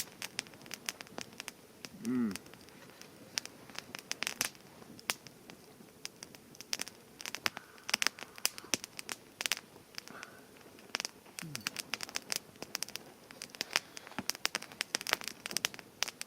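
Irregular crackling and popping as water-spritzed pastries toast over the heat. There is a brief low falling tone about two seconds in and again near eleven seconds.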